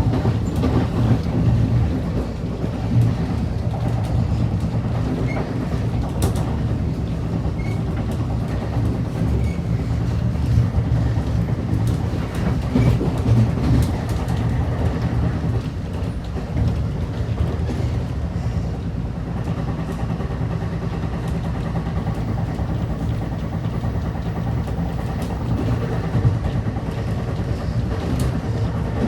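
New Jersey Transit commuter train running on the rails: a steady low rumble with scattered sharp clicks from the wheels.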